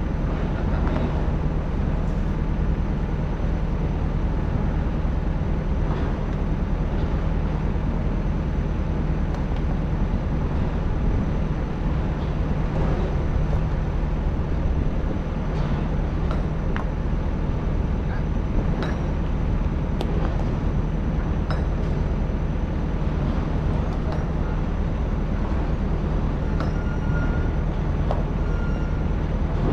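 Excavator's diesel engine running steadily with a low hum, with occasional short sharp clicks and clinks as it digs through hard sand.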